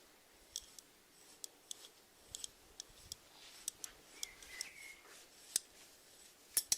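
Snails feeding, their rasping mouths making many small, sharp, irregular clicks and crackles, with a louder double click near the end.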